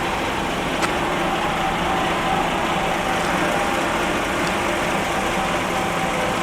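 Heavy lorries' diesel engines running steadily on the road, with a short click about a second in.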